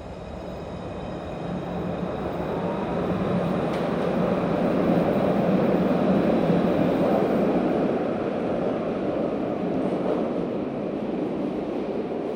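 Alstom Citadis 302 low-floor tram running on its rails, its rumble swelling to a peak about halfway through and then easing only a little, with a faint steady high whine above it.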